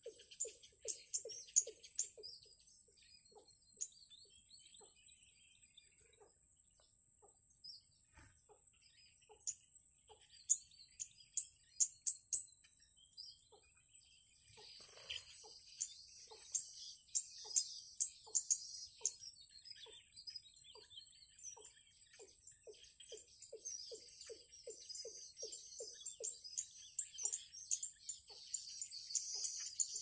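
High-pitched bird chirps in quick clusters, growing denser in the second half, over a steady thin high whine. A lower pulsing call repeats in runs at about four a second.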